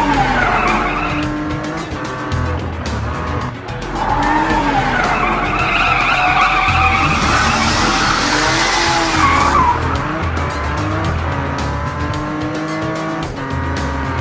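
Cartoon truck sound effects: engines revving up and down in pitch, with a hissing skid from about seven to nine and a half seconds in, over background music with a steady beat.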